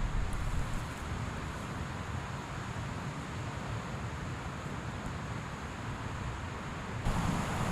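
Wind on the microphone: a steady low rumble with a fainter hiss over it.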